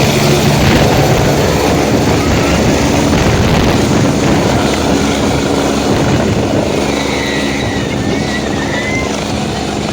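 Helicopter running close by: loud, steady rotor and engine noise with a low hum, easing off a little toward the end.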